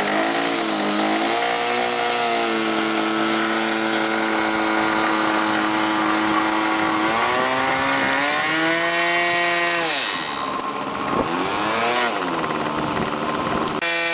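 Model airplane glow engine running with its propeller, throttled up and down. It holds a steady high pitch for several seconds, then revs up and drops back several times in the second half.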